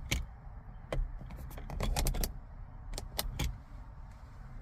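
Irregular sharp clicks and rattles of small hard plastic parts being handled, over a low steady rumble.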